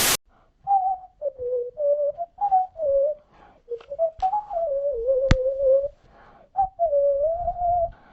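A person whistling a wandering tune in short phrases, one note at a time, with a sharp click a little past the middle. A strummed guitar cuts off abruptly at the very start.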